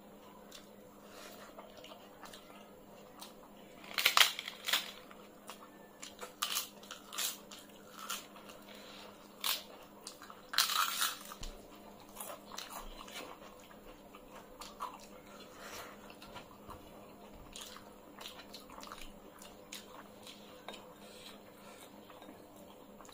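Close-miked crunching and chewing of fried papad and rice eaten by hand, with a run of loud, crisp bites from about four to eleven seconds in, then quieter chewing.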